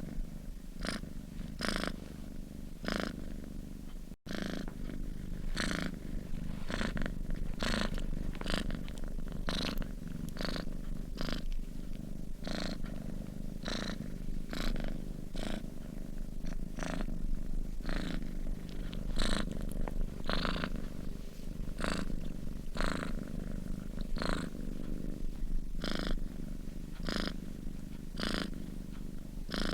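Sleeping cat purring steadily: a continuous low rumble with a breathy hiss that comes and goes with each breath, a little more than once a second.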